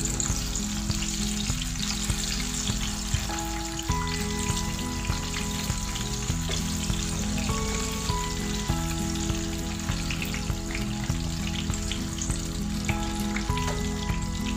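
Banana fritters (pisang goreng) sizzling and crackling in hot oil in a frying pan while a wooden spatula turns them. Background music with low sustained notes plays over it.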